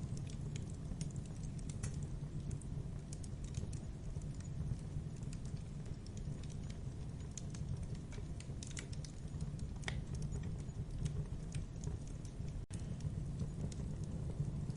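Wood fire crackling in a fireplace: irregular sharp crackles and pops over a steady low rumble of the flames. The sound cuts out for an instant near the end.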